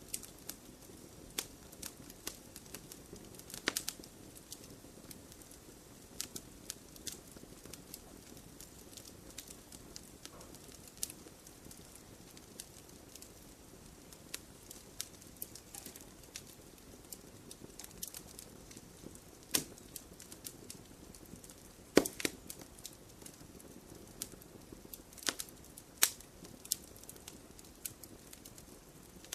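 Campfire of wood burning in a stone fire pit, crackling steadily with a soft low hiss, and scattered sharp pops, a few louder ones in the second half.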